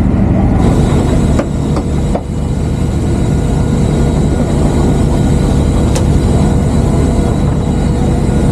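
Boat engine running at a steady speed with an even drone, with a few short knocks about one, two and six seconds in.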